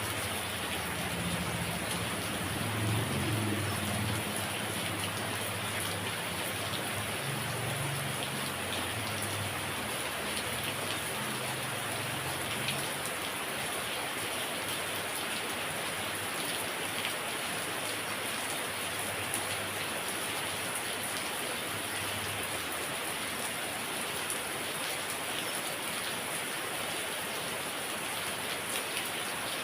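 Heavy rain falling steadily in a dense, even hiss of drops. A low rumble sits under it through the first dozen seconds and fades out.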